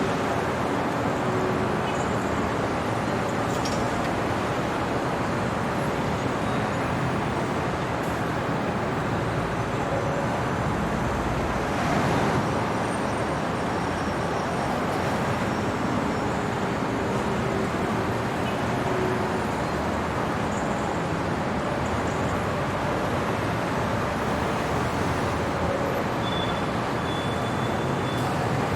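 Steady city traffic noise: a continuous wash of road traffic, with a short swell about twelve seconds in as a vehicle passes close.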